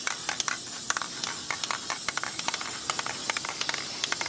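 Aerosol can of workable fixative spraying in one continuous hiss, with small crackles and spits through it.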